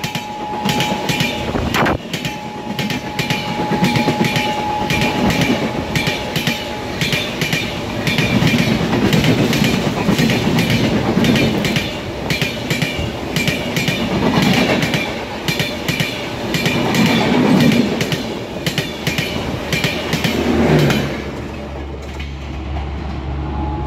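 Passenger train coaches passing close at high speed, their wheels clattering over the rail joints in a fast, dense run of clicks, with a faint steady high tone over the first several seconds. The clatter drops away a little after twenty seconds in as the last coach passes and recedes.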